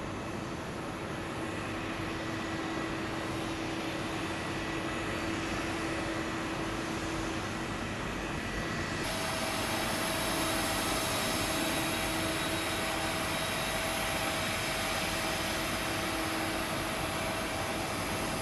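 Jet airliner engines running, a steady rush of noise with a thin steady whine. About halfway through the sound changes abruptly to a louder, brighter rush with a different whine.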